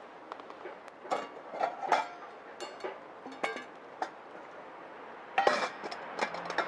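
Hard items clinking and knocking, about a dozen separate strikes, some with a short metallic ring, over a steady hiss.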